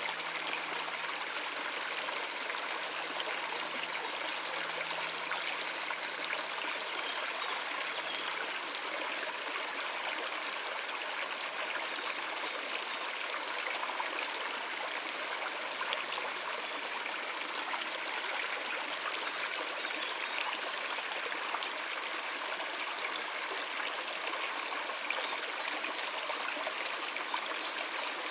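A stream of water running over rocks, a steady even rush with trickling and no pauses.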